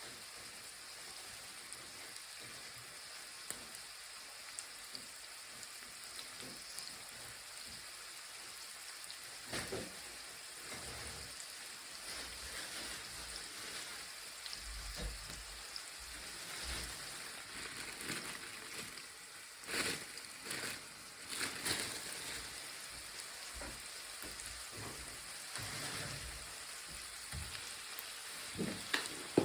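Food sizzling steadily in a frying pan, with a few knocks and scrapes of a utensil against the pan, most of them about two-thirds of the way through.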